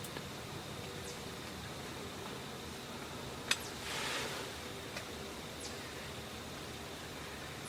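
Quiet woodland ambience with a steady hiss, broken by one sharp snap or click about three and a half seconds in and a short rustle right after it.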